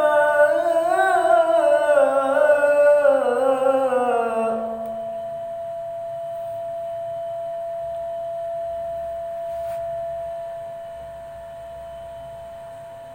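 A man's voice in melodic Quran recitation, drawing out the end of a verse in a long ornamented note that dies away about four and a half seconds in. A single steady tone, present under the voice, carries on alone afterwards and slowly fades.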